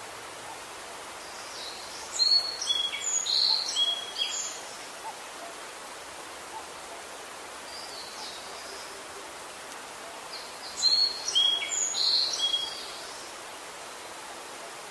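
A songbird singing two short phrases of quick, high chirping notes, the second about eight seconds after the first, over a steady outdoor hiss.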